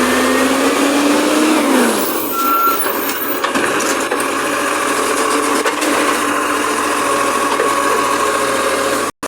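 Garbage truck running, its engine speed rising and then dropping about two seconds in, with a steady mechanical drone after.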